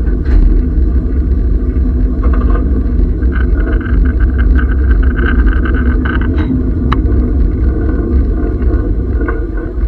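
Historic train running along the track, heard from on board: a loud, steady low rumble. A fainter, higher-pitched sound rides over it from about three and a half to six seconds in, and there is one sharp click near seven seconds.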